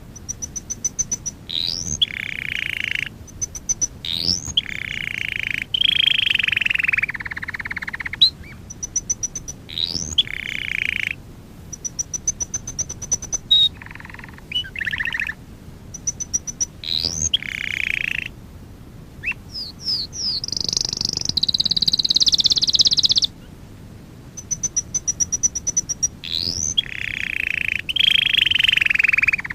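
Domestic canary singing a training song: fast high trills, quick rising whistled notes and longer low rolling tours, repeated in phrases of a few seconds, with a louder high-pitched passage about two-thirds of the way through.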